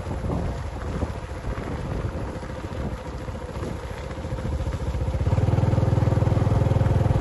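A motor vehicle's engine running, growing louder with a fast, even low throb from about five seconds in.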